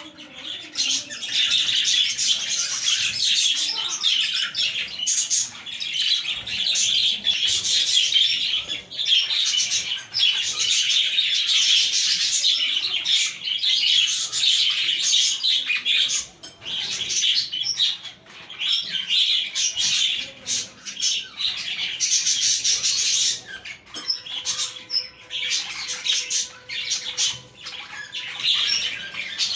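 A flock of budgerigars chattering, warbling and chirping together without a break.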